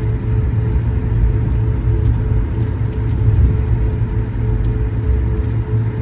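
Steady low rumble of airliner cabin noise inside an Airbus A220-100, with a steady hum running through it.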